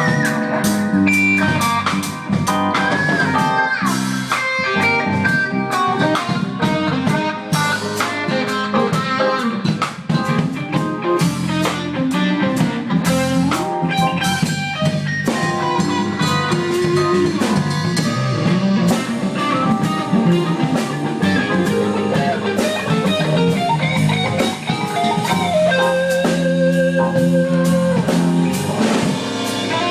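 Live band playing a blues-rock instrumental, an electric guitar lead over a drum kit.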